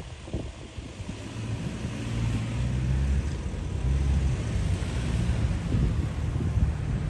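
Diesel train engine running with a steady low note, growing louder over the first few seconds as it nears, with wind noise on the microphone.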